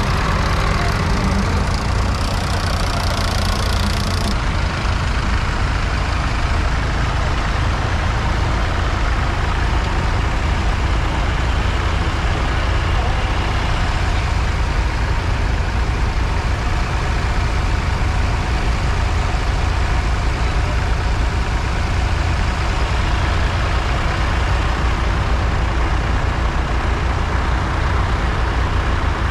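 Tractor engine running steadily with a loud low rumble; a higher hiss that rides along with it drops away about four seconds in.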